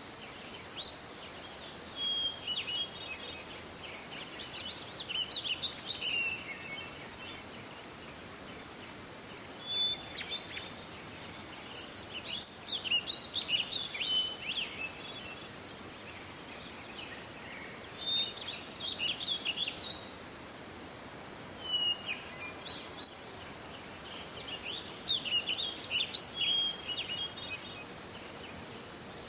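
Songbirds singing: quick, varied phrases of high notes, each lasting about two seconds and recurring every few seconds, over a steady background hiss.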